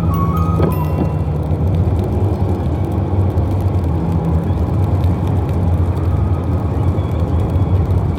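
Steady low rumble of motor vehicle traffic, engine and road noise.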